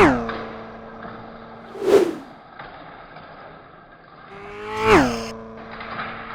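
Racing-car sound effect passing by twice: an engine tone drops sharply in pitch as it goes past, holds a steady low note, and is followed each time by a short whoosh.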